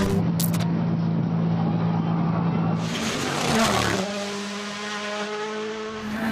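Rally car engines running at held, steady revs. About three seconds in a noisy rush cuts in, and after it the engine note sits slightly higher.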